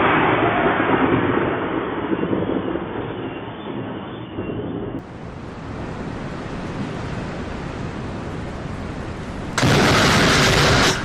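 Thunder rumbling and slowly fading over the first five seconds, then a steady hiss of rain. Near the end a sudden loud crash of noise lasts about a second and a half and cuts off sharply.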